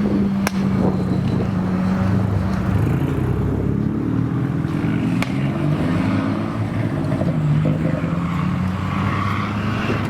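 Car engines running as cars drive slowly past. One engine note holds steady at first, then several rise and fall as the cars move off, with a couple of brief sharp clicks.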